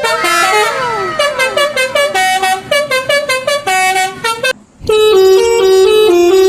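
Multi-tone 'telolet' bus horn playing a tune in quick stepped notes, opening with a few falling glides. It breaks off briefly just before 5 s and comes back on a lower, steadier melody.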